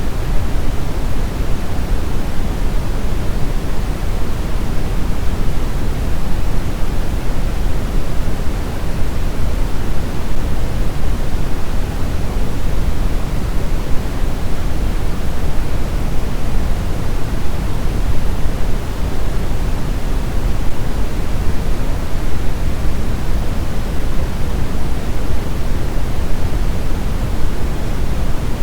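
Steady brown noise: an even, deep rushing hiss weighted to the low end, with no changes or events.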